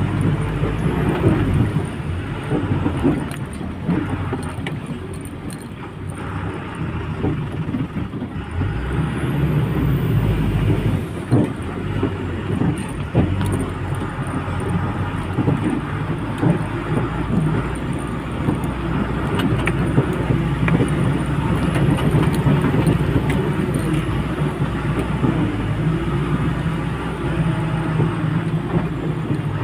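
Lorry driving: a steady low engine drone with road rumble and small rattles, easing off a little about six seconds in and then building again.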